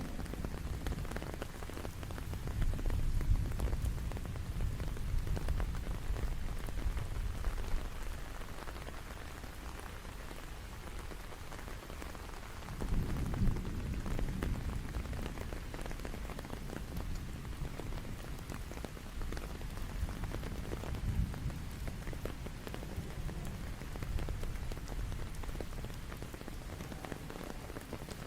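Steady rain falling, with a patter of individual drops and a low rumble that swells a few times, most strongly a few seconds in and again about halfway through.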